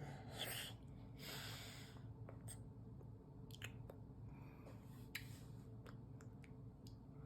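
A baby chewing and eating, with soft lip-smacking clicks and a couple of brief rustling bursts in the first two seconds, over a low steady hum.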